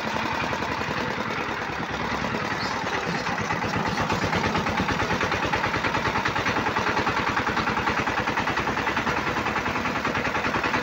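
Single-cylinder diesel engine of a bhutbhuti motor van running steadily with a fast, even chugging beat as the van drives along.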